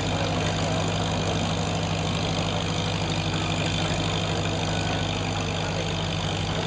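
1951 Farmall H tractor's four-cylinder engine running steadily at idle, an even low drone with no revving.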